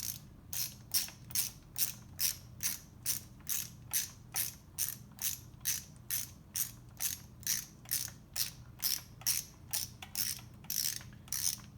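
Socket ratchet wrench being worked in short, quick strokes to spin a case bolt down: an even run of ratcheting clicks, about two and a half a second, over a faint low hum.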